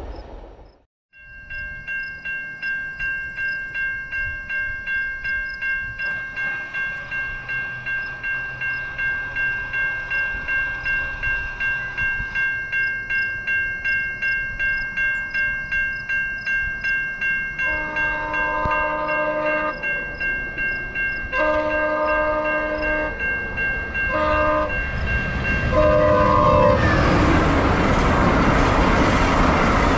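Level-crossing warning bells ringing steadily at about two strokes a second. About 18 s in, a VIA Rail passenger train's locomotive horn sounds the grade-crossing signal, long, long, short, long. Near the end the train arrives and passes over the crossing in a loud rush of wheels and wind.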